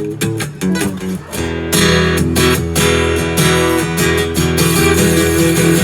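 Guitar music: chords strummed and picked in a steady rhythm, with a low bass line underneath.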